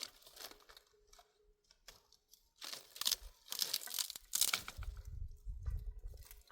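Dry brush and twigs crackling and crunching in a few short, noisy bursts, as wood is handled and broken while firewood is gathered, followed near the end by a low rumble.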